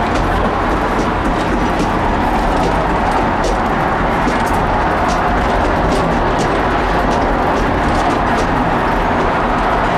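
Steady rumble and rushing noise of a passenger train rolling along the track, heard from aboard, with faint scattered ticks over it.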